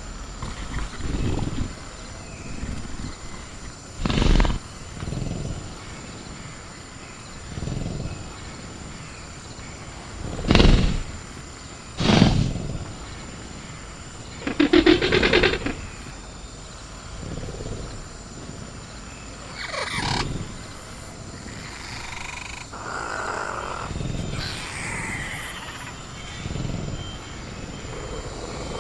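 Velociraptor sound effects: low growls from the caged animal, a few sharp metallic bangs as it rattles the cage, and a pitched call about fifteen seconds in, over a steady high chirring of crickets.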